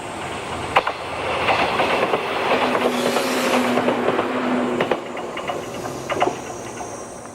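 A train running past on jointed track, its wheels clicking over the rail joints with a rushing noise that swells in the middle. A steady whine is heard for about two seconds midway.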